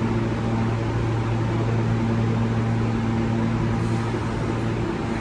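Steady low electrical hum with a fan-like hiss on a subway station platform, with no change in level.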